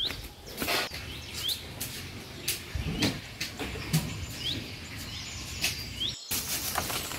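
A songbird calling over and over with a short, sharp chirp about once a second, against outdoor background noise with scattered knocks and rustles.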